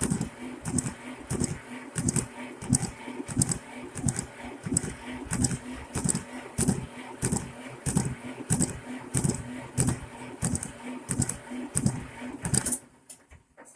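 Starter motor cranking the Shenniu 4/25 compact tractor's cold diesel engine: a steady whine with an even chug about twice a second, without the engine catching. The cranking stops suddenly about a second before the end.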